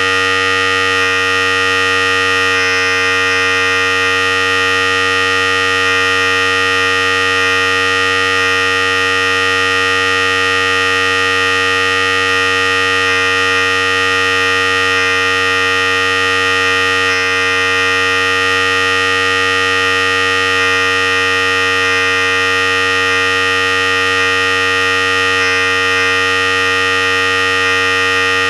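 Philips Series 5000 electric hair clipper running continuously with a steady, unchanging buzz.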